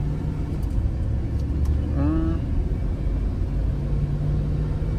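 Inside the cab of a 2002 Chevy Suburban with the 5.3-litre LS V8: engine and road noise as the truck pulls under throttle, with the automatic transmission making a first-to-second upshift that shifts a bit hard.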